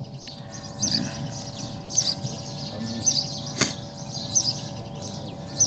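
Small birds chirping again and again in the background, with a faint steady hum beneath and a single click about three and a half seconds in.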